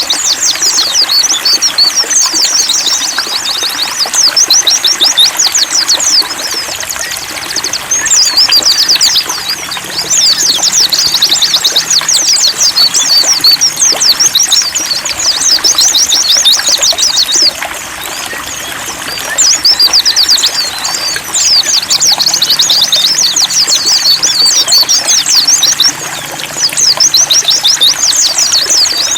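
Pleci white-eyes singing long, rapid, high twittering phrases broken by a few short pauses, over a steady trickle of running water.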